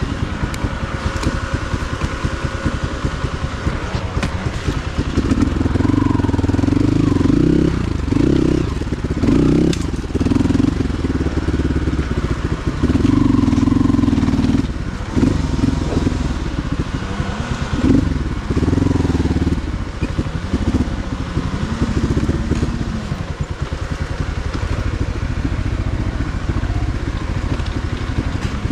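Motorcycle engine running, its note rising and easing several times, louder through the middle.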